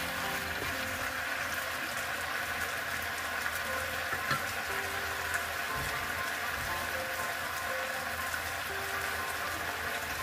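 Chicken and potato pieces sizzling in an enamelled cast-iron pan on the stove, a steady hiss with a few small pops.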